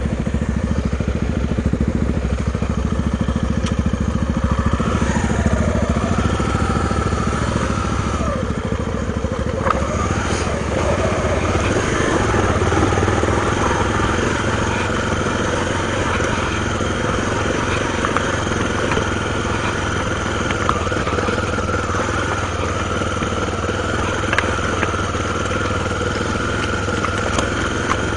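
Honda XR250 Tornado's single-cylinder four-stroke engine running as the motorcycle is ridden off-road. The revs dip and rise several times in the first half, then hold fairly steady.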